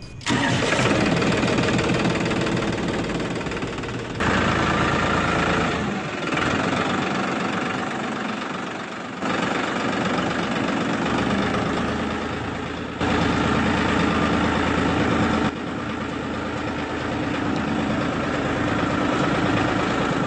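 Small electric motor of a homemade toy tractor running steadily, its sound jumping abruptly in level several times.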